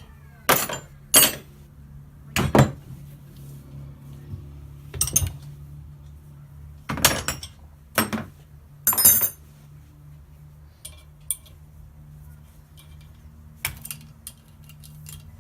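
Metal tools and parts clinking and knocking on a workbench, about eight sharp strikes at uneven intervals with lighter ticks between, over a steady low hum.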